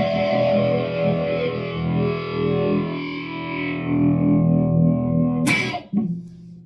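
Electric guitar played through a Fender Champion amp on a distorted setting, sustained notes ringing with heavy overtones. About five and a half seconds in, a sharp struck attack cuts through, and the sound then dies down quickly.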